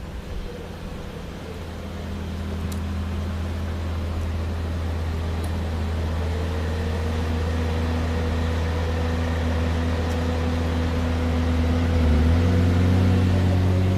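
Lexus LFA Nürburgring Edition's V10 engine running steadily at low revs, growing louder, with a small rise in engine pitch about twelve seconds in.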